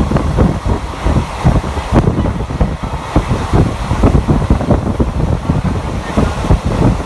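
Passenger train running at speed, heard from onboard: a steady low rumble with wind buffeting the microphone, and frequent irregular knocks and clatter from the wheels and coach, several a second.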